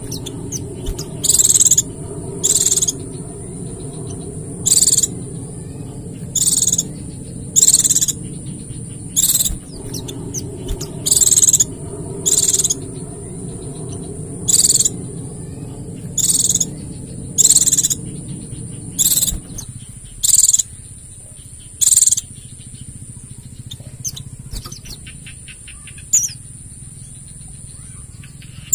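Pleci (white-eye) giving short, loud, high-pitched calls over and over, about one every second or second and a half, stopping about two-thirds of the way through. A steady high-pitched drone runs underneath, and a low background rumble fades out shortly before the calls end.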